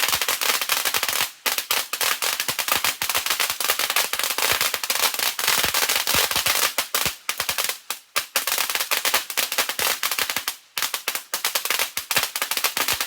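Consumer firework going off in a rapid, continuous string of loud cracks and pops, with a few brief lulls, stopping abruptly near the end.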